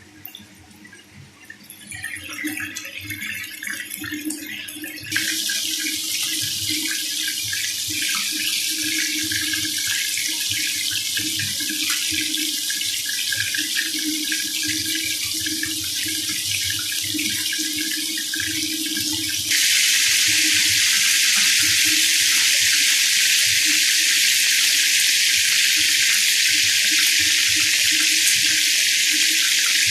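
Kitchen tap running into a sink, starting with a light patter and then a steady rush that gets louder twice as the flow is turned up.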